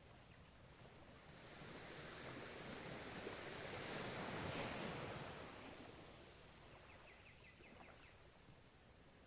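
Ocean surf: one wave builds, breaks at its loudest about halfway through, then washes back and fades. Near the end comes a short run of faint quick ticks.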